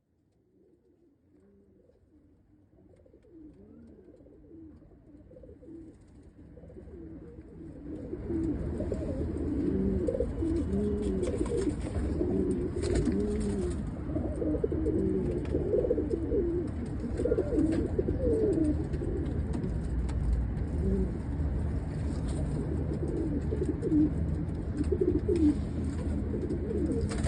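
Domestic pigeons cooing, many overlapping coos over a low steady rumble. The sound starts faint, grows louder over the first several seconds, then holds steady.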